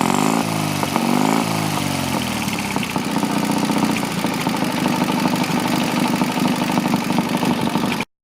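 Motorcycle engine revved in two quick blips, then settling into a steady idle.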